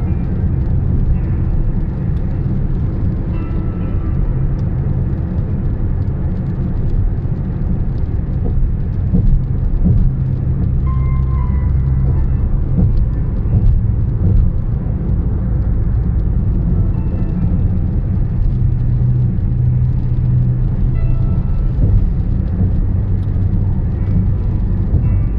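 Steady low road rumble of a car driving on a highway, with faint music playing over it.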